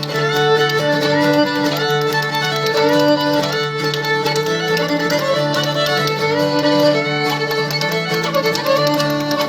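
Old-time string band instrumental break: a fiddle plays the melody with sliding notes over a strummed acoustic guitar, with spoons clicking the rhythm.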